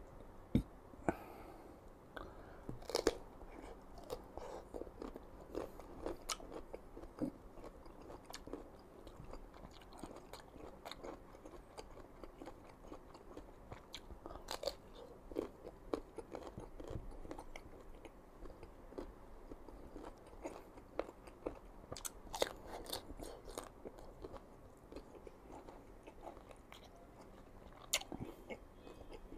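Crisp, crunchy bites into unripe green mango and chewing close to the microphone, with a few louder sharp crunches standing out among steady chewing.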